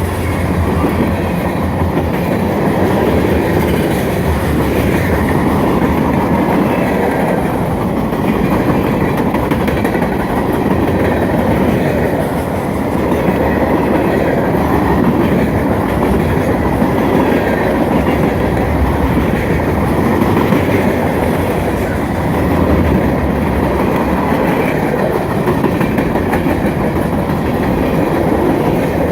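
Freight cars of a long manifest train rolling past steadily, steel wheels running on the rails.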